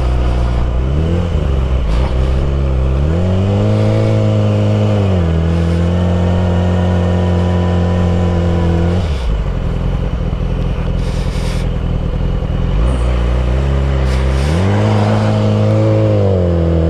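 Suzuki GSX-R motorcycle engine under way: the revs climb twice early on, hold steady, drop sharply about nine seconds in and sit low, then climb again near the end.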